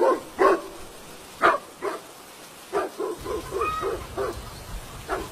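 A dog barking a handful of times, then a quicker run of barks about three seconds in, over falling rain. A low rush of floodwater comes in underneath at about the same point.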